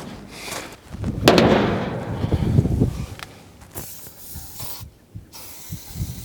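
Hand tools being fetched and handled: a sharp knock about a second in, then a couple of seconds of thumps and rattles that thin out into scattered clicks.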